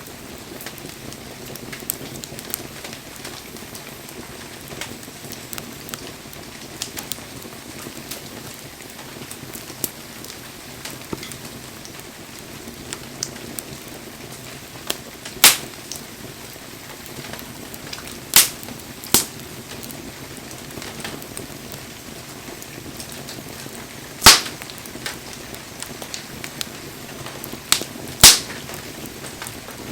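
Wood campfire crackling steadily over a soft even hiss, with small ticks throughout and about half a dozen loud sharp pops from the burning logs in the second half.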